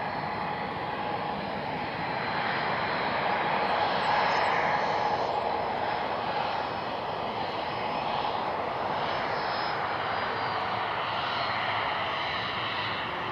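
Airplane taking off, its engines at takeoff power; the noise swells to a peak about four seconds in, then holds steady.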